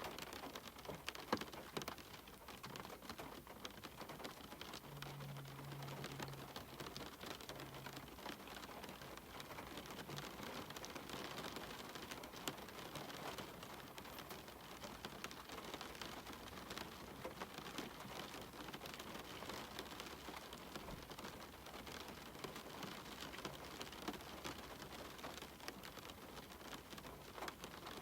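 Steady rain falling on a cabin window, an even wash with many separate drops ticking throughout.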